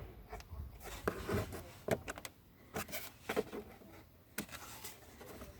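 Handling noise: a series of light knocks and clicks with rubbing in between, irregularly spaced.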